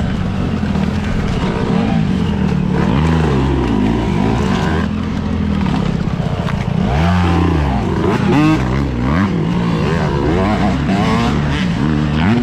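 Dirt bike engines revving up and down repeatedly, several bikes running at once.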